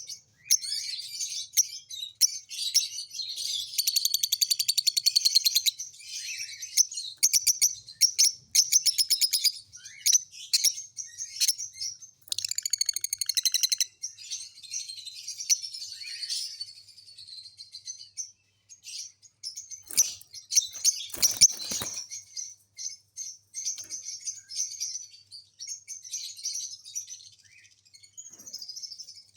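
Small songbirds chirping and twittering busily, with fast rattling trills, loudest a few seconds in and again in the middle. A few soft knocks or rustles come about two-thirds of the way through.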